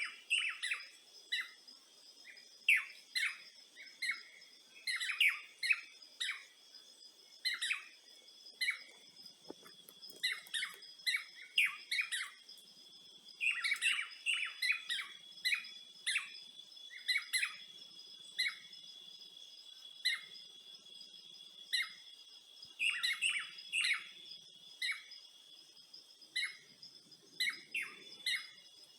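Birds chirping in many short, quick calls throughout, over a steady high insect drone.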